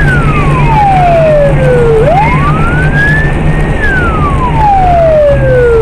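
Emergency vehicle siren wailing: the pitch falls slowly, sweeps back up about two seconds in, holds briefly at the top, falls again, and starts rising once more near the end. A steady low hum runs underneath.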